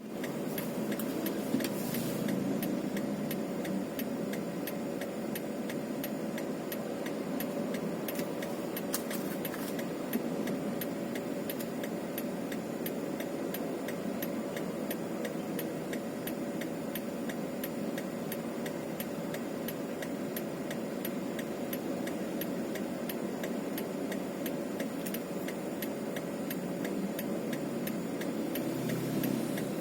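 A vehicle engine running steadily while the vehicle drives along a road, with a regular ticking throughout.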